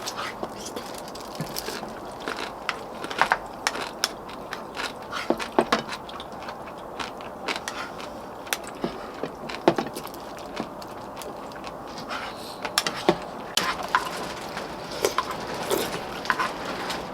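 Eating sounds from a meal of pork-bone soup: irregular sharp clicks of utensils against bowls and bones, with chewing and gnawing on the pork bones.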